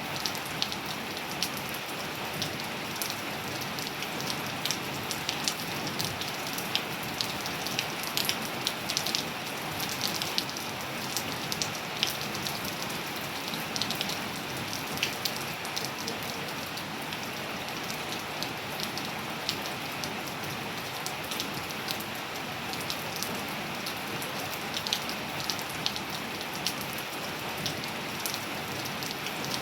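Steady rain falling on hard surfaces, an even hiss with many close individual drops ticking and splashing through it.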